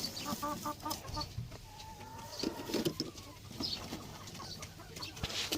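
Laying hens clucking: a quick run of short clucks about half a second in, then one long drawn-out call near the middle, with a few light clicks.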